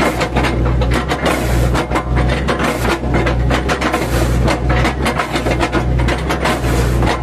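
Mini excavator engine running under load, with dense, irregular crunching and scraping as its bucket chips a felled oil palm trunk.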